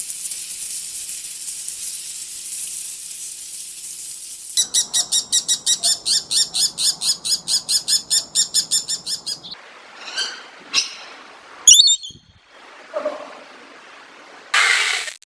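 A steady high hiss for about four seconds, then a rapid run of high chirps, about five a second, lasting some five seconds, followed by a few separate short calls and a sharp click.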